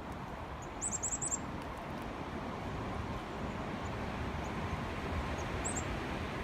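A small songbird gives a quick run of about five high, thin, falling chirps about a second in, then a few single chirps near the end, over a steady background rustle.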